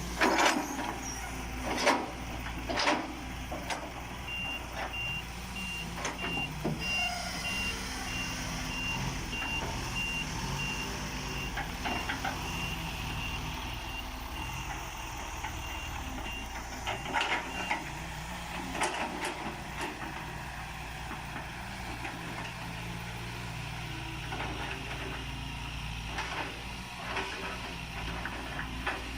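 Hitachi EX120-1 excavator's diesel engine running steadily while rubberwood logs are handled, with sharp knocks and thumps, the loudest in the first few seconds. A backup alarm beeps at one high pitch from about four seconds in for some thirteen seconds, then stops.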